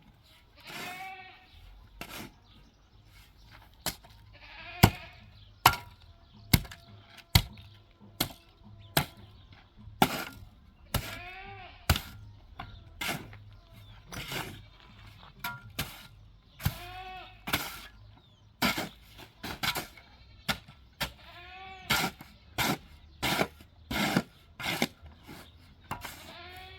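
Livestock bleating again and again, about eight drawn-out calls, over a steady series of sharp knocks, roughly one or two a second.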